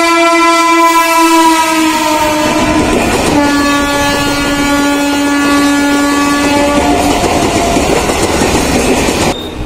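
Train horn sounding two long blasts over the rumble and clatter of a moving train. The first lasts about three seconds and falls slightly in pitch; the second is lower and steadier and lasts about three and a half seconds. The train noise drops away suddenly near the end.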